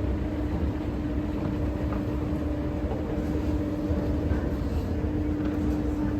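Vehicle running, heard from inside: a steady low rumble with a constant mid-pitched hum and a fainter hum above it.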